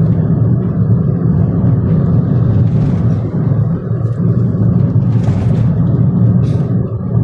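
Car driving along slowly: a steady low engine and road drone, with a few brief faint higher-pitched noises over it.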